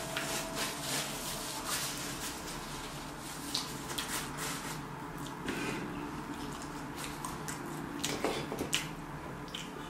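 A person chewing a mouthful of chicken gyro, with a steady string of short, wet mouth clicks and the crinkle of its paper wrapper.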